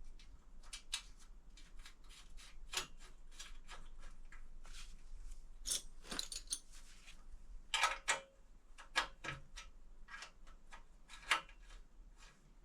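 Irregular metallic clinks, taps and clicks of hand tools and exhaust-pipe fittings being handled and fitted on a vintage motorcycle. The loudest knocks come in a short cluster about two-thirds of the way through, then one sharp clink a little later.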